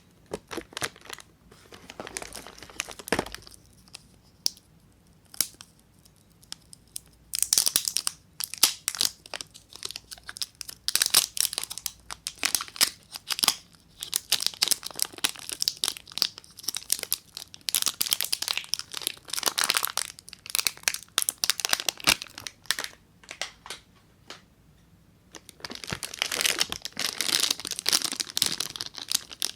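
Soap bar wrappers being torn open and crinkled by hand, in bursts of crackly tearing with two short pauses.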